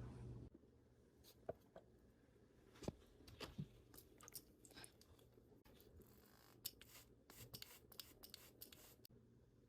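Faint scattered clicks and short scrapes of small household objects being handled, with a denser run of quick clicks and rustling from about six to nine seconds in.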